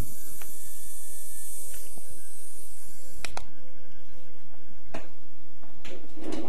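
Close-miked ASMR handling sounds: a soft hiss that fades out in the first couple of seconds, then a few sharp, separate clicks or taps.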